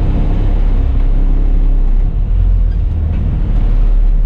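Bus engine running with a steady low rumble, heard from the driver's seat.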